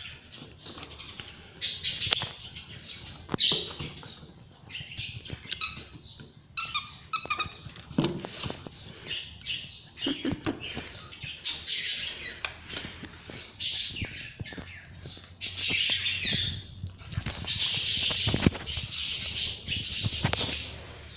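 Dogs playing with a new squeaky dog toy: a few short, high squeaks around the middle, among repeated bursts of rustling and crinkling and small knocks.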